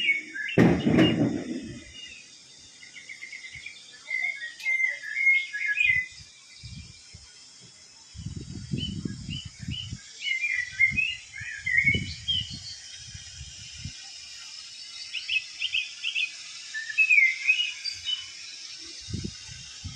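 Small birds chirping and twittering in quick, high calls throughout, over a steady hiss. A few low rumbles come and go, loudest about a second in.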